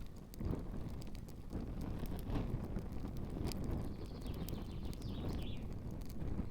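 Campfire burning, with scattered sharp crackles and pops over a steady low rumble of wind on the microphone.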